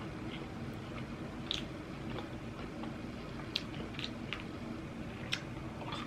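A person chewing and biting crispy deep-fried pork belly (lechon kawali) close to the microphone: scattered small crunches and mouth clicks over a low steady hum.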